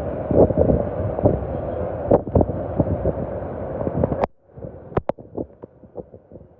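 Heavy rain with wind buffeting the microphone, dense with irregular drop taps. A sharp click a little past four seconds cuts it off abruptly, leaving much quieter scattered taps of dripping rain.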